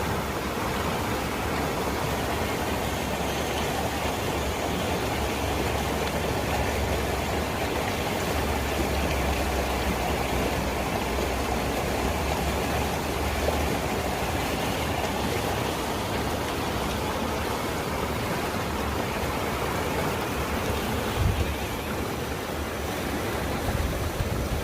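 Steady rush of flowing water, with one brief low thump near the end.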